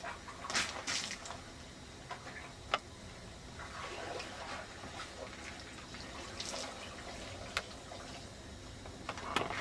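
Water-swollen FloodSax sandless sandbags being handled and set down: wet water sounds with a few sharp knocks.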